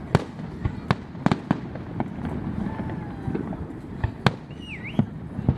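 Fireworks going off: a rapid, irregular string of sharp bangs and crackles over a low rumble, with the loudest booms about a second apart in places. A short whistle dips and rises near the end.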